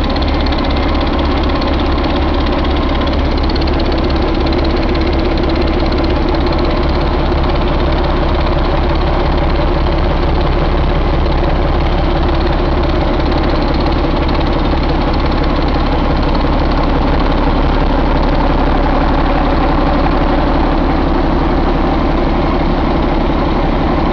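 Paccar MX13 inline-six diesel engine idling steadily.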